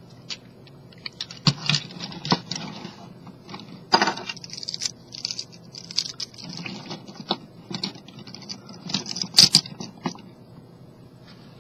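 Hard plastic parts of a Transformers Generations Sandstorm action figure clicking and tapping as they are handled and adjusted, an irregular string of small clicks with a few sharper knocks.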